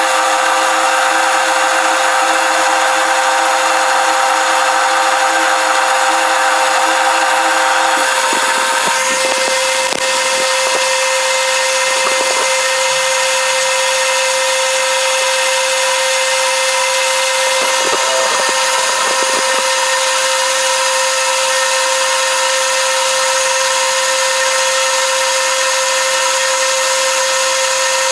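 An electric machine tool running steadily with a constant whine. Its tone shifts about eight seconds in, and faint scraping strokes come and go a little later.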